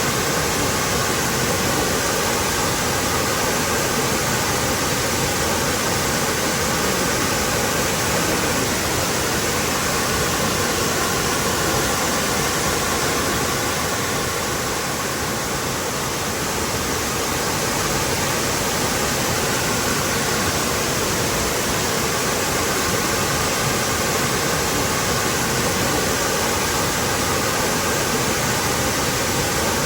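Waterfall: a steady, even rush of falling water, briefly a little softer about halfway through.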